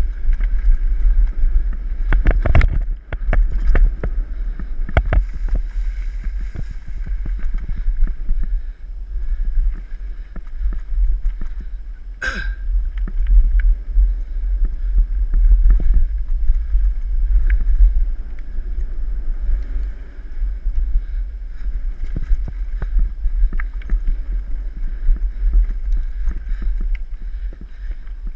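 Mountain bike ridden along a dirt trail: a steady low wind rumble on the microphone, with frequent clattering knocks and rattles from the bike over bumps. There is one sharp, ringing clank about twelve seconds in.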